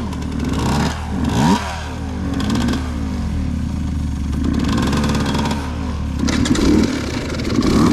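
Two-stroke dirt bike engine revving up and dropping back again and again while riding.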